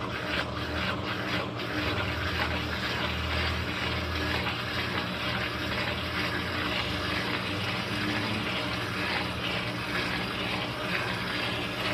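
Electrolux LT13B top-load washing machine filling with water: a steady rush of water into the tub, with a low hum beneath.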